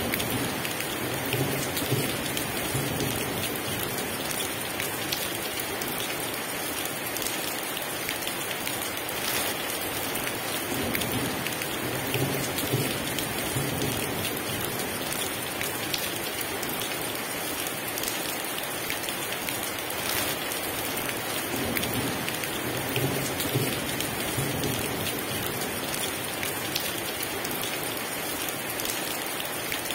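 Heavy, steady rain pouring onto surfaces, with low rolls of thunder three times, about ten seconds apart.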